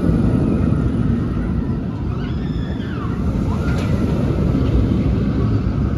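Wind rumbling on the microphone over a steady outdoor din, with a few faint high wavering sounds about two to four seconds in.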